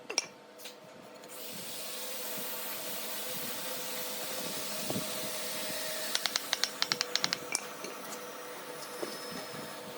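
A woodworking power tool starts up about a second in and runs with a steady hiss and a faint hum. About six seconds in comes a quick run of about ten taps or clicks.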